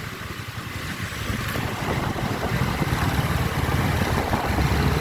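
Busy street traffic, mostly motorbikes running past, with wind buffeting the microphone. The low rumble grows louder about halfway through.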